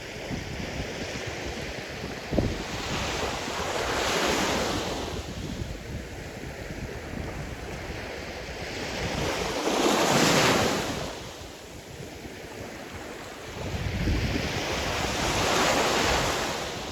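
Sea surf: waves breaking and washing ashore, swelling three times, roughly every five to six seconds, with the middle wave the loudest. A low rumble of wind on the microphone runs underneath.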